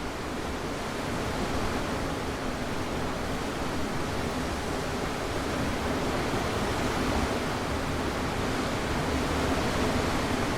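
Waterfall pouring: a steady, full rush of falling water that rises slightly in level over the first couple of seconds.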